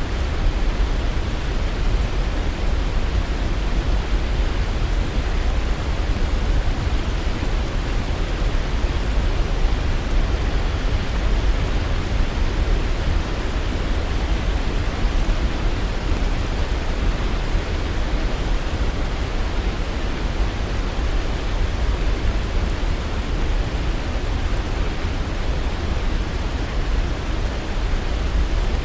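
Waterfall: a steady, unbroken rush of falling water with a deep low rumble beneath it.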